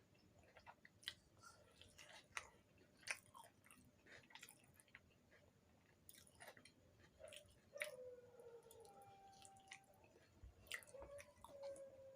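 Faint chewing and wet mouth clicks of a person eating puri with dum aloo, in short irregular bites. A faint drawn-out tone sounds twice in the second half.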